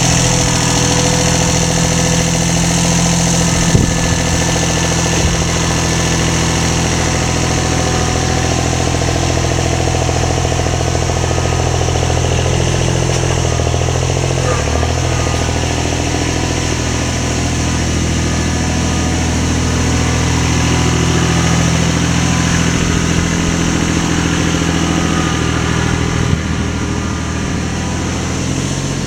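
A motor running steadily with an even low drone, with a couple of small knocks about four seconds in and again near the end.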